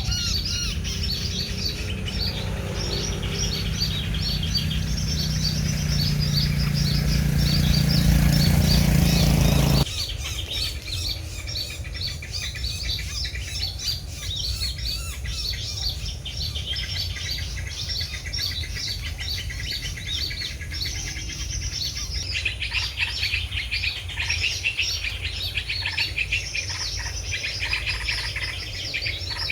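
Small birds chirping rapidly and continuously with high, quick notes. For the first ten seconds a louder low hum with noise builds up underneath and then stops abruptly.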